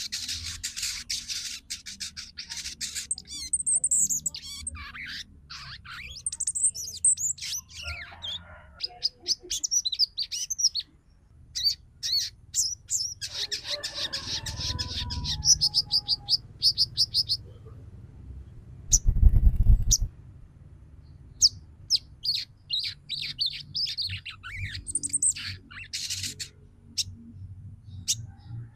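Female sogon bird calling in rapid, high-pitched chittering trills and sharp chirps, in runs broken by short pauses: the excited call used as a lure to set male sogon birds singing and into breeding condition. A brief low thud about two-thirds of the way through.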